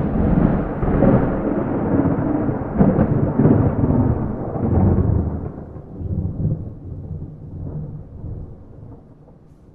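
Thunder with no rain: a peal that starts suddenly and rolls in a deep, rumbling wave for about five seconds, then dies away.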